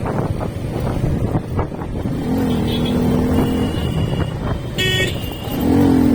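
A motorcycle riding along a road, its engine and wind noise running steadily. A vehicle horn sounds in a long steady blast about two seconds in and again near the end, with a short high-pitched beep from another horn just before the second blast.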